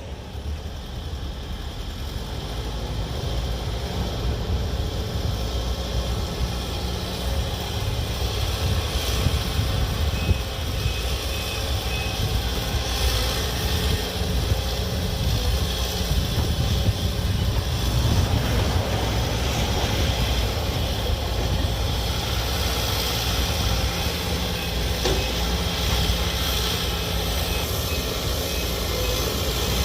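Sumitomo SH210-5 excavator's Isuzu 4HK1 diesel engine running steadily with a deep, continuous rumble.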